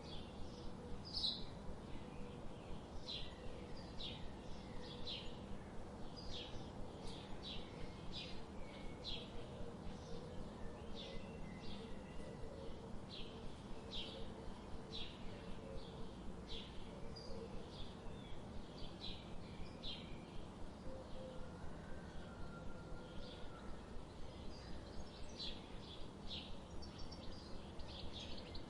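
Birds chirping: a steady run of short, high chirps, several a second, over a constant low background hiss.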